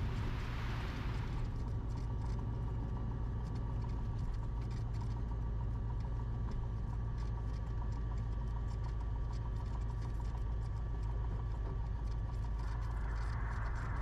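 Cessna 172RG's four-cylinder Lycoming engine running steadily at low power after landing, a constant low hum, with a brief hiss in the first second or so.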